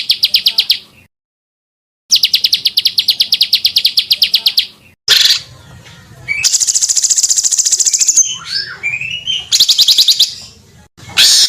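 Edited string of small songbird calls: rapid trills of sharp repeated notes, about nine a second, broken by a second of dead silence about a second in, then a higher buzzing trill, gliding whistled notes and a loud short call near the end.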